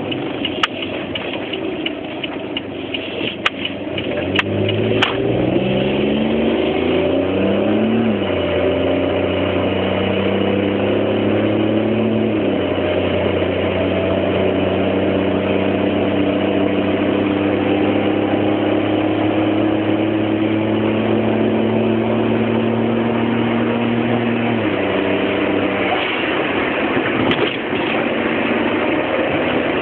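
Car engine running: a few sharp clicks in the first seconds, then the engine speed rises over about four seconds, settles to a steady drone, eases down a little, and drops back near the end.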